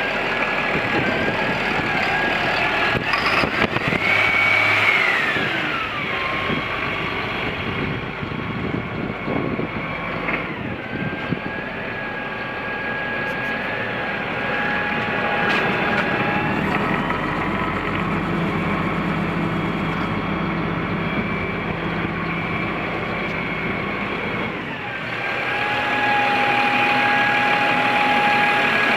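Challenger MT675D tractor's six-cylinder diesel engine running, its pitch rising and falling a few times in the first ten seconds and then holding steadier, with a high steady whine over it.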